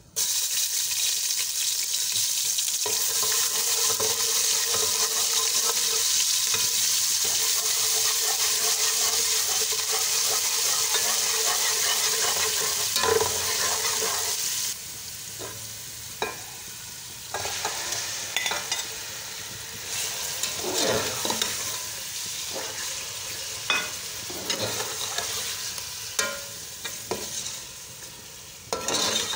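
Spices and paste hitting hot oil in an aluminium pot set off a sudden, loud, steady sizzle while a slotted metal spoon stirs. About halfway through the sizzle drops off abruptly. Quieter, uneven frying follows, broken by scrapes and knocks of the spoon against the pot, and near the end raw chicken pieces are stirred in the oil.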